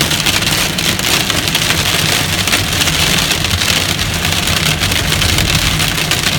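Heavy hail and rain pelting a vehicle's roof: a dense, continuous clatter of many small impacts over a low steady rumble. The hail is not that big, but there is a whole lot of it.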